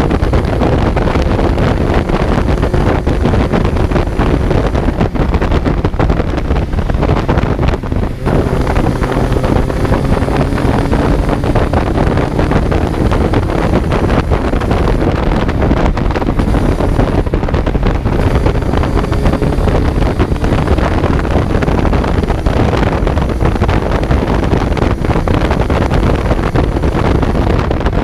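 Kawasaki Z900 inline-four engine running under way, its pitch slowly rising and falling, heard through heavy wind buffeting on the onboard microphone. A brief dip in level comes about eight seconds in.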